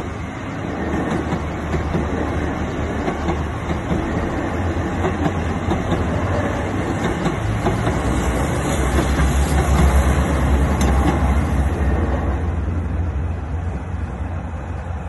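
Passenger train passing close by at speed, a rushing rumble with wheel clatter that builds, is loudest a little past the middle, then eases off.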